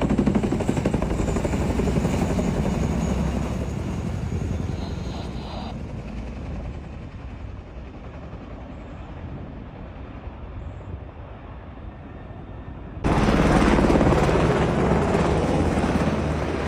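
Helicopter rotor chopping steadily. It is loud at first and fades over several seconds, then comes back loud all at once about thirteen seconds in.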